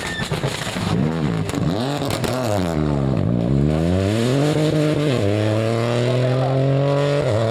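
Rally car engine revving up and down a few times, then accelerating hard through the gears, the pitch climbing with each pull and dropping at upshifts about five seconds in and again near the end.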